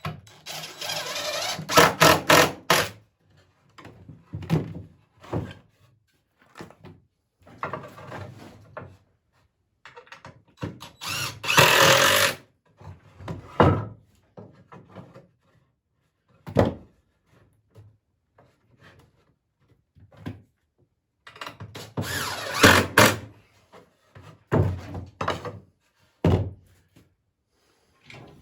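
Power drill running in three spells of about two seconds each, driving screws into wooden swing boards, with thunks and knocks of the wood being handled between them.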